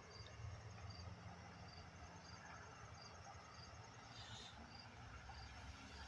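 Faint crickets chirping in the background: short high chirps repeating evenly, a little more than once a second, over a fainter steady trill from a second insect and a low hum.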